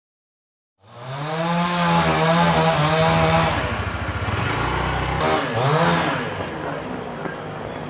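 Two-stroke chainsaw running at high revs, its pitch wavering under load; it drops about five seconds in, revs back up, then runs on at a lower level.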